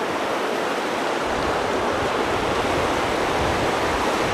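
Floodwater rushing steadily as it pours over into the flooded moor, with wind rumbling unevenly on the microphone.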